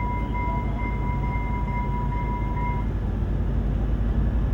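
Commuter train's steady low rumble, growing louder near the end, with a steady high electronic tone that cuts off about two-thirds of the way through.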